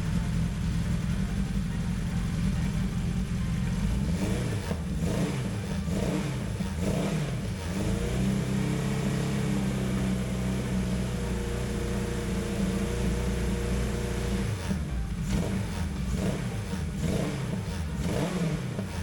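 Suzuki GS1000's air-cooled inline four-cylinder engine running and being blipped, revs rising and falling several times, then held at a steady raised speed for several seconds before more blips. Its carburettors are still being tuned, with the air screws unevenly set.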